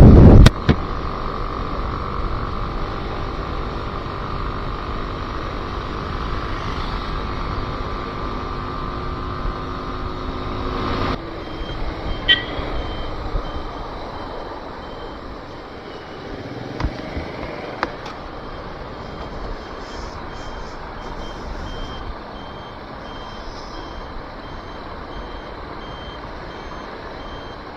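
Bajaj Pulsar NS160 motorcycle running at steady speed under way, with road noise. Its engine note changes about eleven seconds in, and from then on a high-pitched beep repeats alongside, like a vehicle's reversing beeper.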